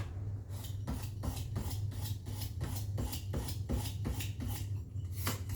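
Scratching strokes on a cardboard template, about three a second in a steady rhythm, over a steady low hum.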